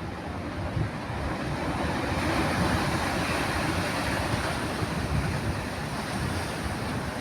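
Ocean surf rushing, swelling to a peak about three seconds in and then easing off, with wind buffeting the microphone.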